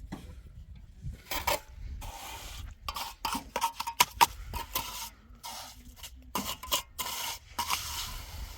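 A run of irregular scraping and rasping strokes, short and uneven, about fifteen of them over several seconds.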